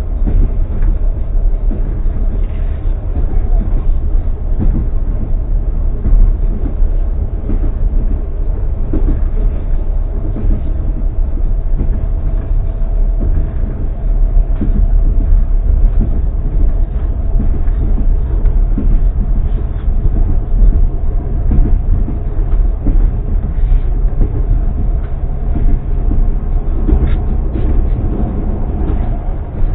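Passenger train running, heard from inside an open-plan sleeping car: a steady low rumble with irregular knocks from the wheels on the track and a faint steady hum.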